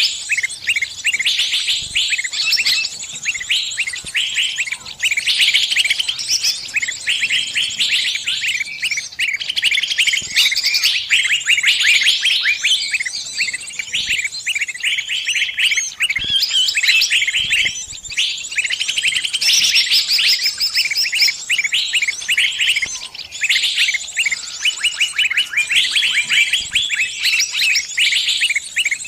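Small bird giving rapid, high-pitched distress chirps in dense runs with brief pauses: the calls of a trapped bird calling to others of its kind for help.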